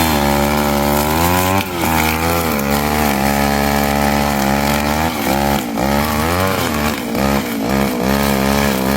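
Reload 543 VIP petrol brush cutter engine running at high speed while cutting grass. Its pitch dips and recovers briefly, once about two seconds in and several times in the second half.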